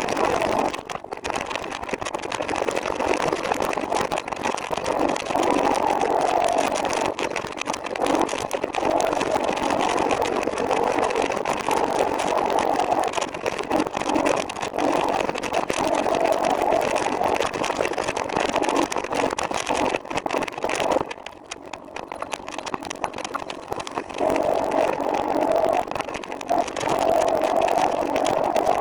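Steady road and vehicle noise while riding, rising and falling, with a brief drop about 21 seconds in.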